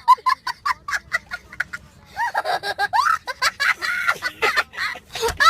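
High-pitched laughter in quick, choppy bursts, about five a second at first, then longer runs of laughing from about two seconds in.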